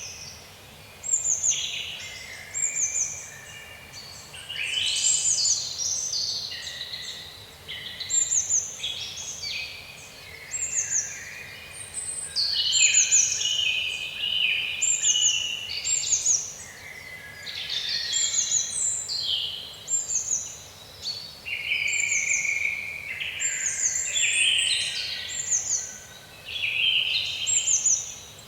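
Several songbirds singing together in woodland. One bird repeats a short, high, falling note about once a second while others sing longer, more varied phrases.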